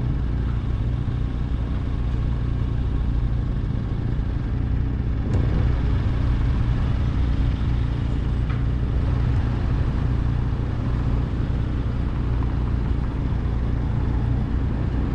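Motorcycle engine idling steadily with the bike at a standstill, a constant low hum.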